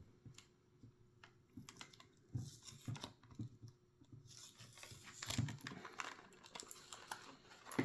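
Tape and plastic packaging being picked at and pulled apart by hand: scattered small clicks and taps, then denser crinkling and tearing from about halfway through.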